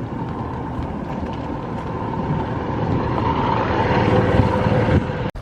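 A vehicle running steadily, heard from on board, its noise building toward the end before cutting off suddenly.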